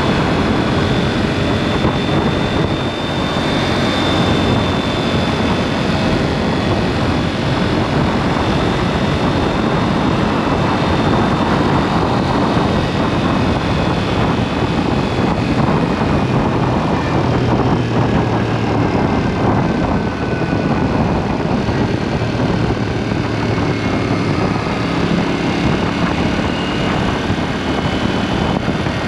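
KTM 790 Duke's parallel-twin engine running through an aftermarket SpeedPro Cobra SPX exhaust while riding, its note rising and falling gently, under a steady rush of wind and road noise.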